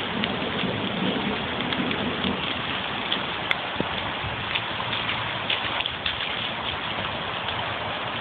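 Steady hiss of water from flash floodwater running through residential yards, with scattered small ticks and splashes.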